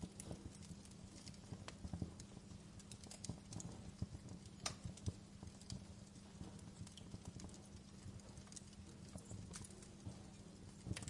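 Wood fire in a fireplace crackling, with irregular snaps and pops over a low, steady rumble of the flames.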